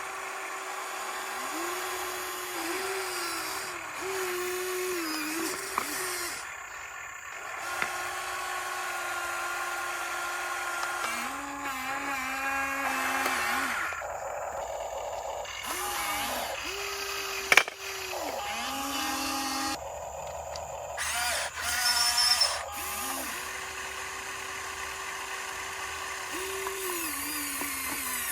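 Small electric motors of a radio-controlled construction model whining as they run in short spells, the pitch rising and falling as they speed up, slow and stop. A single sharp knock about two-thirds of the way through is the loudest moment.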